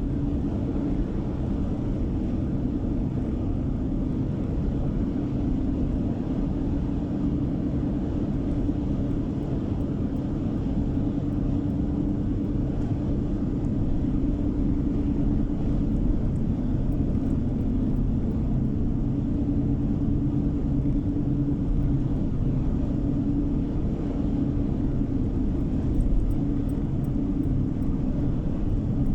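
Steady low rumble of tyres and engine heard inside a moving car's cabin, with no change in pace. A faint, quick ticking comes in near the end.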